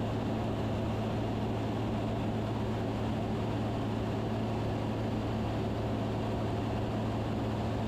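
Steady drone of a Van's RV-10's engine and propeller in cruise, heard inside the cabin: an unchanging low hum under an even noise.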